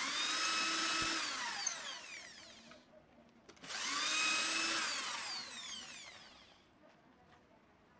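Handheld electric power tool triggered twice in short bursts. Each time its motor whine starts abruptly, then falls in pitch and fades over about three seconds as it spins down.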